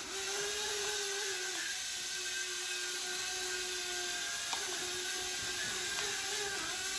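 Propel X09 mini quadcopter drone's small motors and propellers whining steadily in flight, the pitch dipping slightly a few times as the speed changes.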